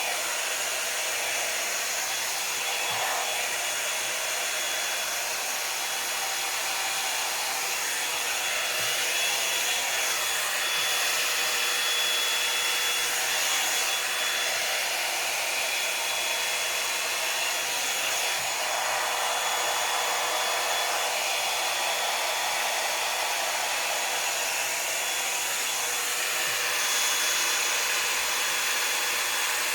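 Revlon One-Step hot-air brush hair dryer running steadily, blowing air with a constant whine over the rush, while it is brushed through long hair.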